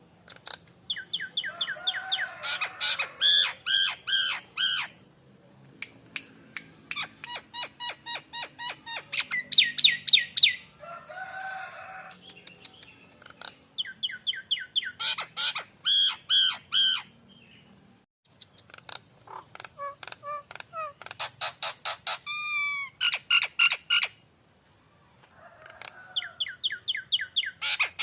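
Nias hill myna calling in phrases of rapid, repeated short notes, a few seconds each, separated by brief pauses; a few notes sweep in pitch.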